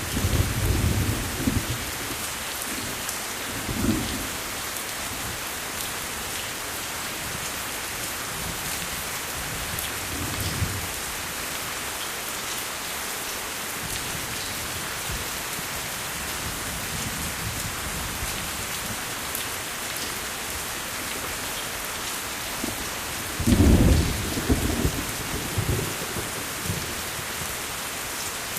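Steady rain falling, with thunder rumbling low several times; the loudest roll comes about three quarters of the way through.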